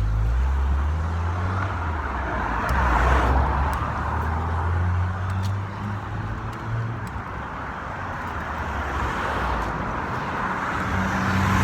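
Road vehicle noise: a steady low rumble with a swell of noise about three seconds in.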